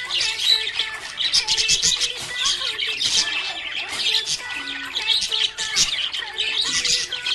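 Budgerigars chirping and warbling in a continuous, rapid stream of overlapping high chirps.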